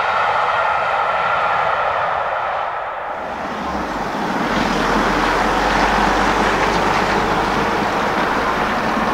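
Railway coaches running past at speed: a steady rumble of wheels on rail with a faint ringing tone, fading about three seconds in. It gives way to a steady rushing noise with a low hum.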